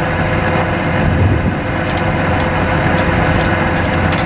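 Dodge 5500 bucket truck's engine idling steadily with the power take-off engaged. A series of light, sharp clicks begins about halfway in.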